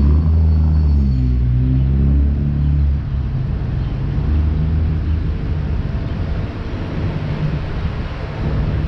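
Low, loud rumble of a motor vehicle's engine running close by in street traffic, its pitch shifting briefly about a second in.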